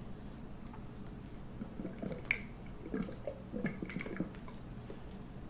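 Close-up wet mouth sounds of someone eating: soft chewing, smacks and small clicks, clustered between about two and four seconds in.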